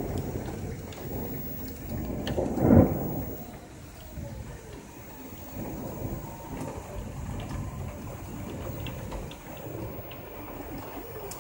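Steady heavy rain from a thunderstorm, with a loud peal of thunder about two to three seconds in that rumbles off over the following second or so.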